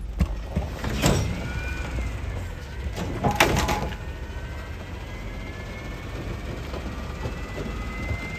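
Autocar ACX McNeilus garbage truck running, with a faint high whine that slowly shifts in pitch and two loud metal clanks, about a second in and about three and a half seconds in.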